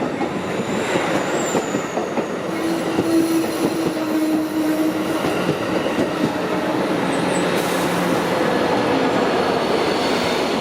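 Amtrak Pacific Surfliner passenger train pulling into a station: a steady rumble of wheels on rails, with a faint steady tone rising above it for a couple of seconds a few seconds in. The train is coming in very quietly, led by its cab car with the Siemens Charger locomotive pushing at the rear.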